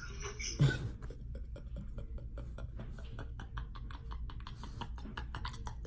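A rapid, irregular run of light clicks or taps, several a second, over a low steady hum, with a brief voice sound just after the start.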